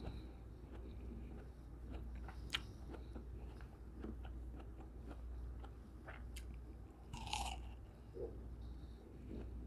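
Chewing of juicy cantaloupe chunks, with many small wet mouth clicks, and a louder bite into a fresh piece about seven seconds in.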